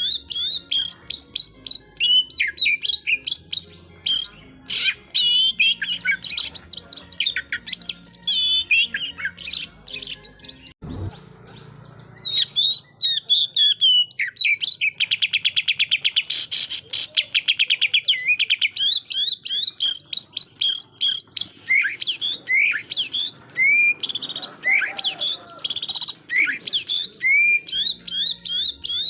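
Oriental magpie-robin (kacer) singing a fast, varied song of whistles and chirps, with a long rapid trill of repeated notes about halfway through: the 'full shooting' song that bird keepers use to provoke rival males. A single short low thump comes about a third of the way in.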